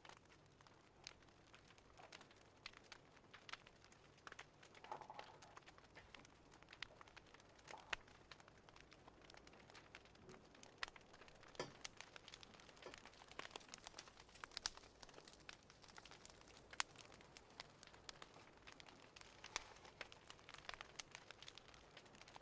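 Faint crackling of a fireplace fire: irregular sharp pops and snaps over a low hiss.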